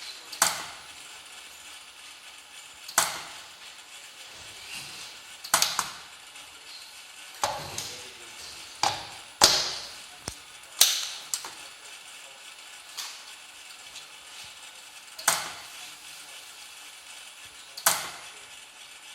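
Repeated sharp cracks from the surge discharges of a Megger SWG 1750 surge wave generator, each with a short ringing tail. They come at a steady pace of about one every two and a half seconds, with a few extra cracks bunched in the middle.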